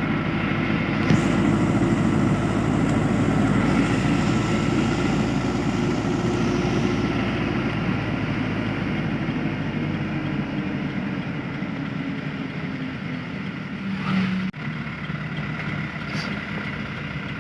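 Truck engine running steadily, with a brief break about fourteen seconds in after which it is a little quieter.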